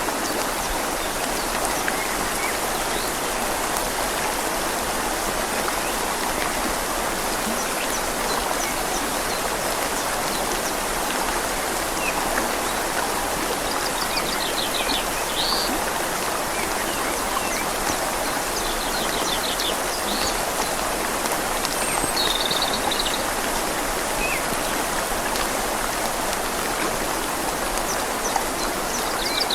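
A river flows with a steady rushing, and rain falls on leaves. A small bird gives a few short trilled chirps in the second half.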